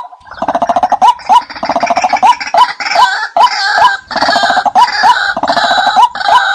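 Decoy call recording of the 'nok kai na' water bird: short hooked notes repeating about twice a second, overlaid for most of the stretch by a rapid gurgling chatter. This is a call played to lure the same bird in.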